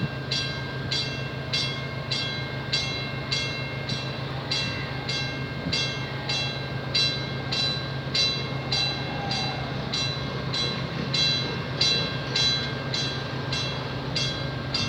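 A train running at a steady pace, with a steady hum and sharp rhythmic clicks about twice a second from the wheels crossing rail joints.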